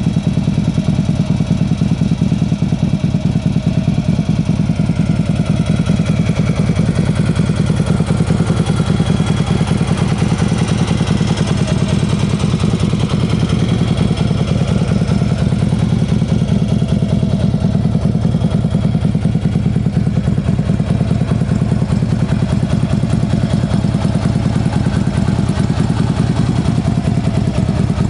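2011 Harley-Davidson CVO Road Glide Ultra's Twin Cam 110 V-twin idling steadily through a Rinehart true dual exhaust, a loud, even low rumble.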